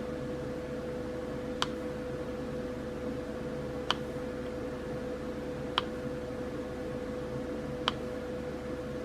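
Diamond painting pen setting resin drills onto the sticky canvas: a sharp little click about every two seconds, four in all, over a steady faint hum.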